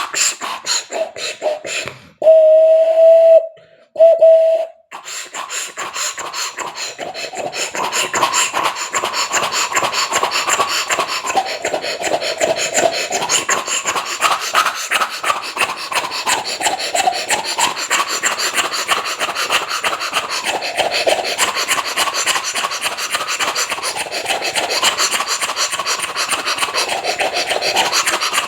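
A man imitating a steam locomotive with his mouth: a held whistle-like tone about two seconds in, then a fast, steady raspy chuffing rhythm as the train pulls away from the station, with a voiced tone wavering up and down over it.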